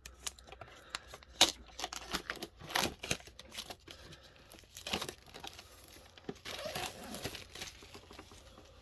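Plastic shrink-wrap being torn and peeled off a Pokémon card tin, crinkling and crackling in irregular bursts.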